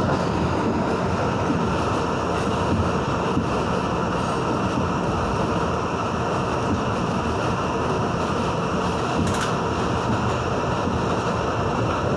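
An R62A subway car running at steady speed, heard from inside the car: a continuous rumble of wheels on rail, with a faint steady whine over it.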